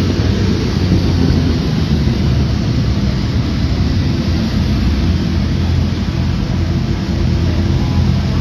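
Motorcycle engines running steadily: a loud, even low drone with no revving.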